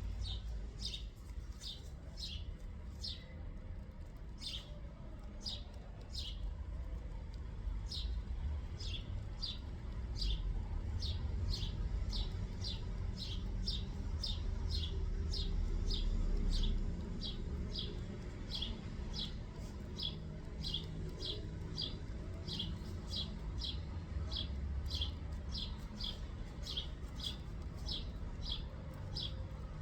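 A small bird repeating a short, high, down-slurred chip note about twice a second, over a steady low rumble.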